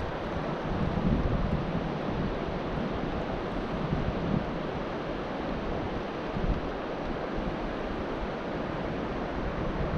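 Steady rushing noise of river water, with wind buffeting the microphone in an uneven low rumble.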